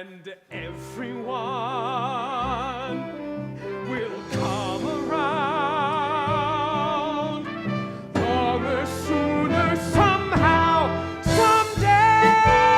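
Musical-theatre song with band or orchestra accompaniment: sustained sung notes with wide vibrato and no clear words, swelling in level and reaching a loud, steady held high note near the end.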